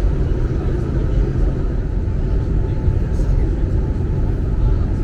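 Airbus A321 cabin noise during the descent to land: a steady, loud rumble of engines and airflow.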